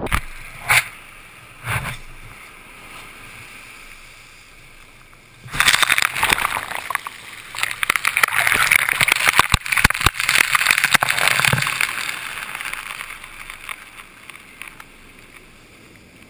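Storm surf breaking on the shore. About five and a half seconds in, a wave crashes with a sudden loud rush, and its foam hisses and washes for several seconds before slowly easing. Wind gusts buffet the microphone with a couple of short thumps near the start.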